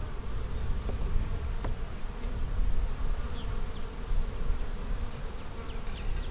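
Honey bees buzzing around an opened hive: a steady hum, with single bees now and then flying close past. A short rasping noise near the end.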